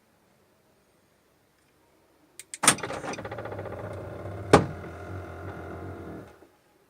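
A few clicks, then a car's electric motor whirs steadily for about four seconds, with one sharp click partway through, before cutting off.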